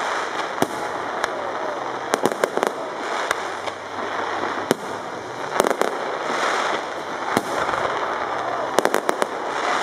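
Aerial fireworks bursting overhead: sharp cracks and bangs, several coming in quick crackling clusters, over a continuous background noise.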